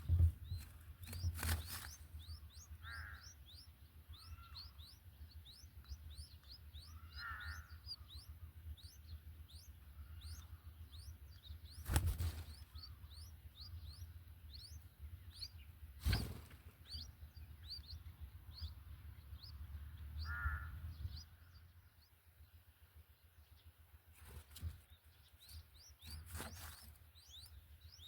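Birds calling: a rapid, steady run of short high chirps, about three or four a second, with a few lower calls in between. A handful of sharp knocks and a low rumble come through, the rumble dropping away about two-thirds of the way in.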